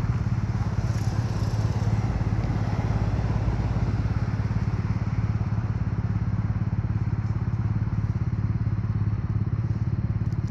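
Motorcycle engine idling steadily with an even, rapid low pulse.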